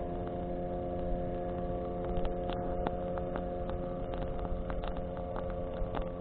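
Bonfire crackling, with sharp pops scattered irregularly over a rumbling, wind-blown flame noise. A steady engine-like hum of several held tones runs underneath.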